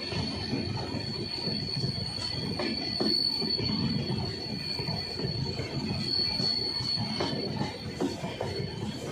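LHB passenger coaches rolling past on the rails, with a low rumble, a steady high-pitched wheel squeal and a few wheel clacks.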